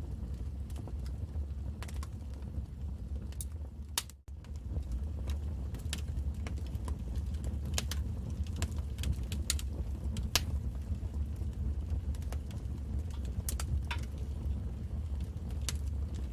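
Wood fire crackling in a fireplace: irregular sharp pops and snaps over a steady low rumble. The sound cuts out for an instant about four seconds in.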